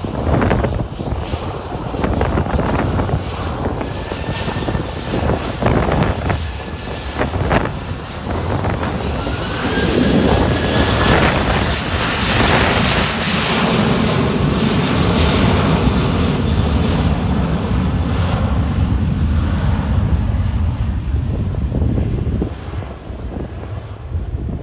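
Departing airliner's engines: the sound builds about ten seconds in with a rising whine, stays loud, then eases near the end. Wind gusts buffet the microphone, most plainly in the first seconds.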